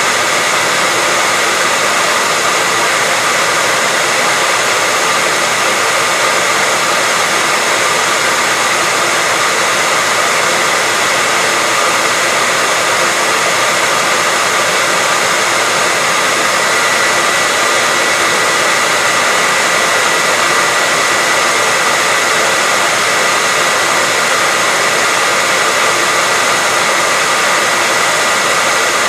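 Electric hair dryer running steadily: a continuous rushing blow of fan and air noise with a steady whine on top, constant in level throughout.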